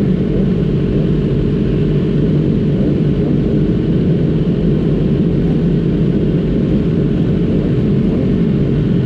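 Racing motorcycle's engine running at a steady, low speed, heard through an onboard camera, with no rises in pitch.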